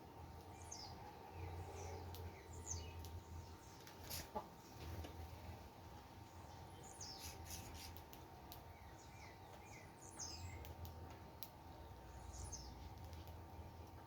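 Small birds chirping at a seed feeder: scattered short, high chirps that fall in pitch, in loose clusters, with a few sharp clicks among them and a faint low rumble underneath.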